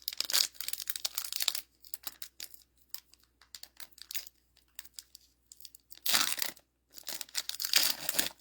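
Foil wrapper of a Dragon Ball Z trading card booster pack tearing and crinkling in bursts, with scattered small ticks between, from cards being handled.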